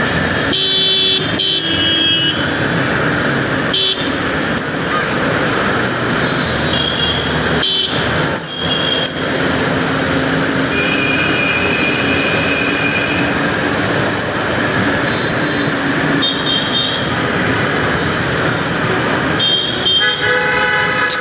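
Busy road traffic heard from a moving motorcycle, a Bajaj Pulsar 200NS: a steady rush of wind and engine noise. Short vehicle horn honks sound every few seconds, with one longer honk about eleven seconds in.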